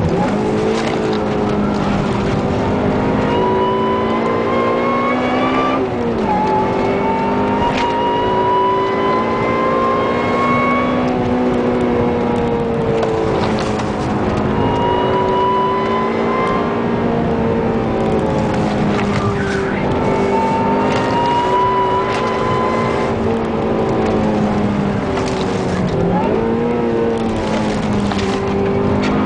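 A supercharged 2006 Honda Civic Si's 2.0 L four-cylinder engine pulling up a steep grade, heard from inside the cabin over tyre and road noise. The revs climb slowly and then drop sharply, once about six seconds in and again near the end. A higher whine climbs along with the revs.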